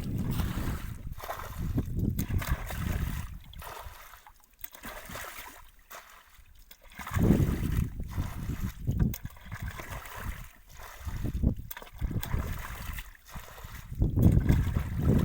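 Shallow muddy water sloshing and splashing in uneven bursts, with a quieter stretch in the middle and the loudest splashes at about seven seconds in and near the end.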